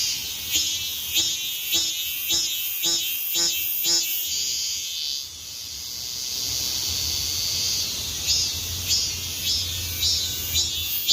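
Cicadas singing: a steady high buzz with a louder pulsing call over it, about two pulses a second. The pulsing fades out about five seconds in and starts again about three seconds later.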